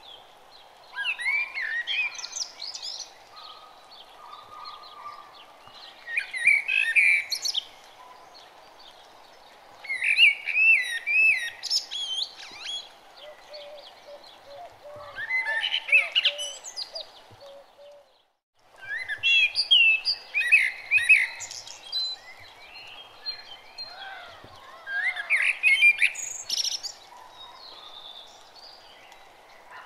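Songbirds singing: bouts of quick, warbling chirps every few seconds over a faint steady background hiss. The sound cuts out for a moment about two-thirds of the way through, then resumes.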